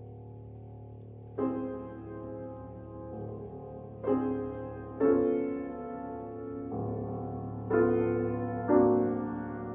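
Piano playing a slow series of struck chords, each one ringing out and fading before the next, about five in all. A low steady hum runs underneath.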